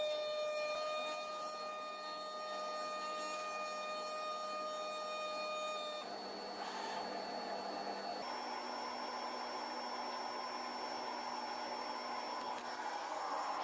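Comagrav DIGI CORSA CNC flatbed cutter running while cutting rubber sheet: a steady machine whine over a hiss. The pitch changes abruptly about six and again about eight seconds in.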